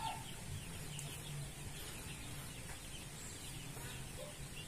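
Faint bird chirping: many short, falling chirps a few per second over quiet yard ambience.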